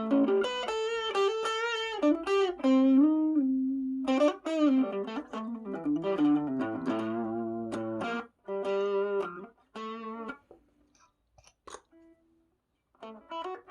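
Electric guitar played through an overdrive pedal: single-note lead lines with string bends and held notes. About ten seconds in the playing thins to a few short picked notes, then picks up again just before the end.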